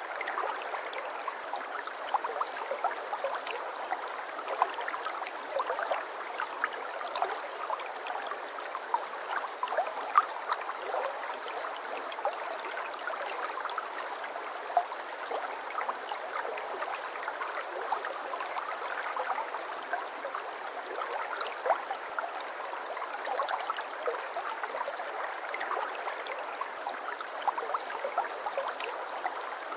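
Small brook babbling over stones, a steady rush of water with constant small splashes and gurgles.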